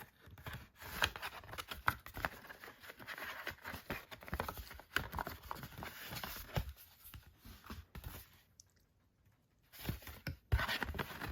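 Glossy photo-still cards and their packaging being handled: irregular scraping, rustling and small taps, dropping away briefly before a few sharper knocks near the end.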